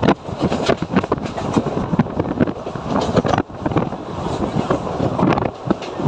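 Mumbai suburban local train running, its carriage rattling with many irregular knocks and clatters over the track.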